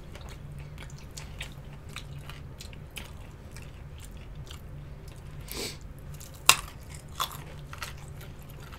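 Close-miked biting and chewing of crispy fried chicken wings: a scatter of small crunches and clicks, with one much louder crunch about six and a half seconds in and a smaller one just after.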